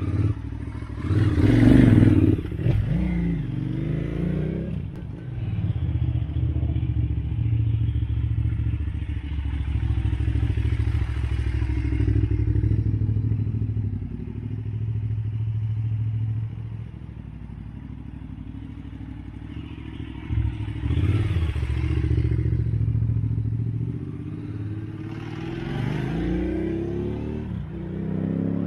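2008 KTM 990 Adventure's V-twin engine revving as the bike pulls away past, loudest about two seconds in. It then runs steadily, fades in the middle and swells again twice near the end.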